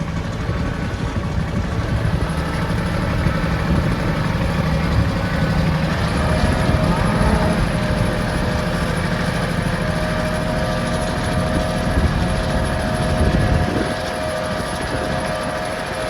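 Strong wind buffeting the microphone, a gusty low rumble that eases a little near the end. A faint steady hum comes in about six seconds in.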